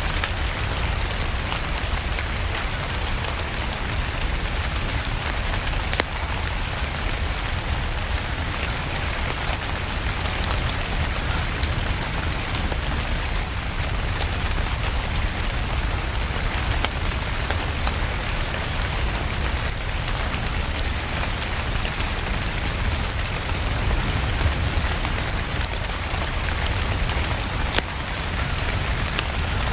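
Steady rain with a fireplace crackling, scattered sharp crackles over an even hiss and a constant low rumble.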